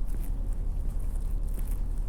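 Footsteps crunching through snow, a short crisp crunch about twice a second, over a steady low rumble.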